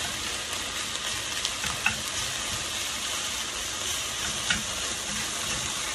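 Fried rice with soy sauce sizzling steadily in a deep metal frying pan while it is stirred with a wooden spoon, with a couple of light knocks of the spoon against the pan.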